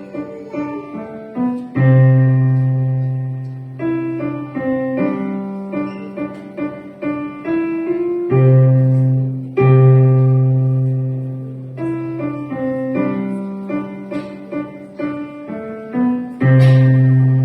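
Piano playing a simple children's song melody over low bass notes, each struck note left to ring and fade away.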